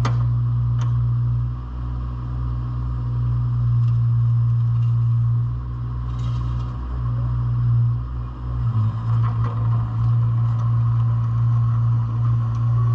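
A JCB 8016 mini excavator's diesel engine running steadily, with a couple of sharp clicks near the start. About two-thirds of the way through the engine note shifts and a higher whine comes up alongside it.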